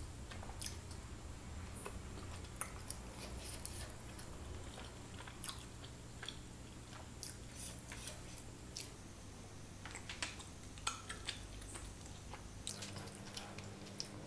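Quiet chewing of a soft, syrup-soaked baby gulab jamun, with scattered small clicks and smacks of the mouth.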